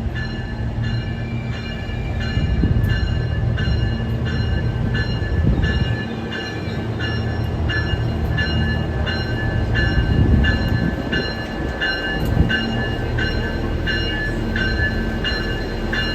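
SMART diesel multiple-unit train at a station: its diesel engines rumble steadily, while a bell rings in an even rhythm about one and a half strokes a second.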